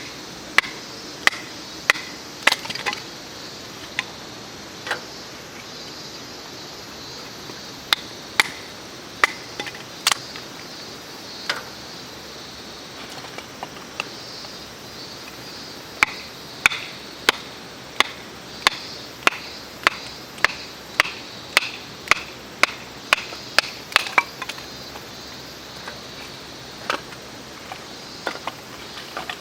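Wood being chopped into firewood or kindling: repeated sharp wooden knocks, scattered at first, then a quick even run of about two strokes a second from about halfway, then scattered again near the end.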